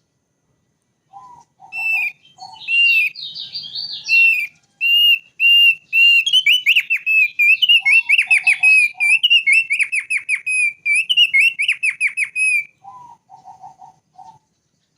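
Thick-billed white-eye (Heleia crassirostris) singing a long, loud run of quickly repeated whistled notes. Short groups of three or four lower notes come about a second in, about halfway through, and near the end.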